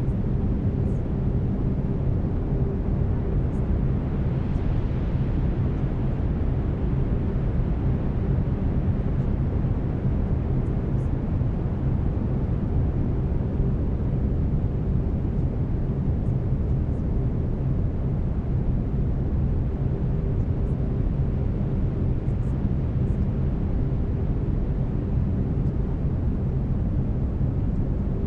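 Steady brown noise: an even, deep rushing hiss weighted toward the bass. Faint steady tones run under it, the binaural-beat carrier tones of a delta-wave track.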